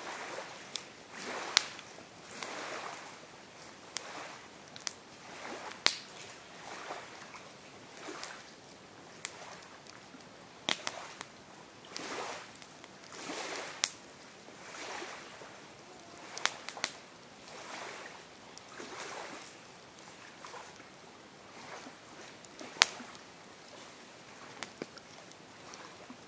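Campfire burning and crackling: irregular sharp wood pops and snaps, a few much louder than the rest, over a soft hiss that swells and fades about once a second.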